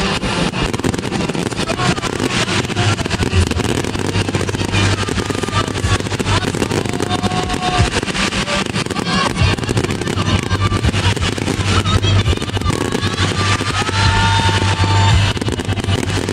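Fireworks bursting and crackling in quick, dense succession over loud music.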